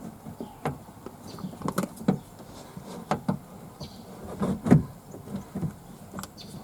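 Irregular metal clicks and knocks from a window motor and regulator assembly being worked into place inside a car door while a mounting bolt is fitted. The loudest knock comes about two-thirds of the way through.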